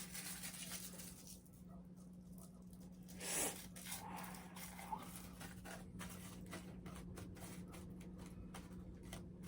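Faint rustling and crackling of rolling paper being handled, with many small clicks and a soft swish about three seconds in, over a steady low electrical hum.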